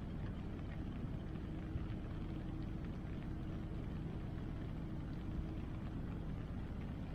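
Steady rushing of river water and rain, with faint scattered crackles from a wood bonfire.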